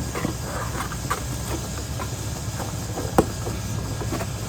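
Steady low rumble of a running motor, with a few sharp knocks, the loudest about three seconds in.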